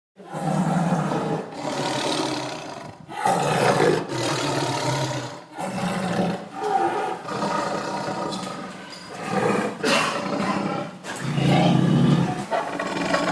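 An animal's loud, rough calls, repeated one after another every second or two.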